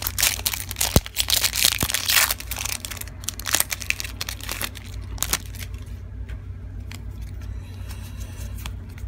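Foil Pokémon booster pack wrapper being torn open and crinkled, loud and crackly for the first few seconds, then a few scattered crinkles and clicks. A steady low hum runs underneath.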